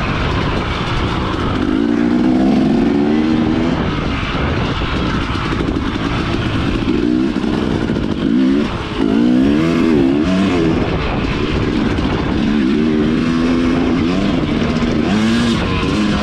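Dirt bike engines running and revving, the pitch rising and falling again and again as the throttle opens and closes, over a steady rushing noise.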